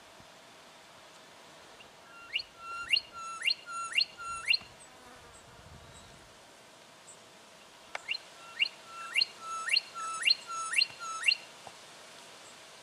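Juvenile brown goshawk calling in two runs of sharp, repeated notes, about two a second, each note dropping steeply in pitch: five or so notes, a pause of a few seconds, then about seven more.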